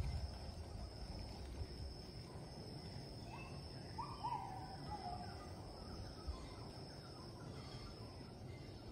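Outdoor forest ambience: a wild bird gives a few short calls that rise then fall, in the middle, over a steady high insect drone and a low rumble.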